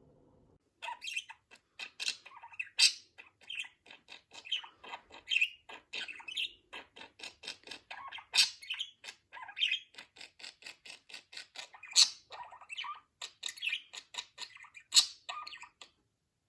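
Budgerigar chattering: a fast, dense run of chirps, clicks and squawks that starts about a second in and stops just before the end.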